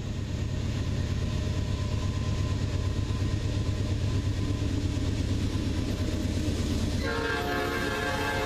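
Diesel road locomotives, a pair of GE Dash 9-44CWs, rumbling steadily as they pull a train along. About seven seconds in, an air horn starts sounding a steady chord.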